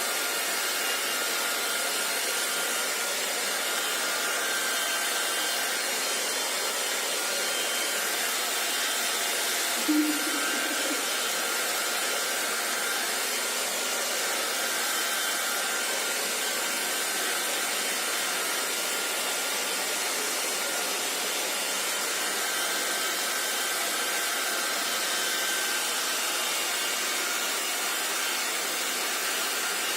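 Hair dryer blowing steadily, an even rushing hiss with a faint motor whine, and one short low bump about ten seconds in.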